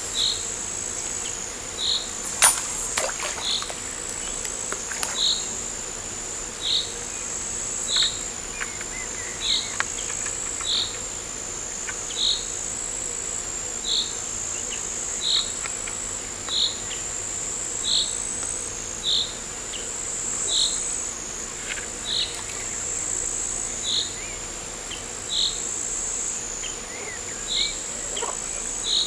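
Insects trilling steadily at a high pitch, with a short chirp repeating evenly about every second and a half. A sharp click about two and a half seconds in.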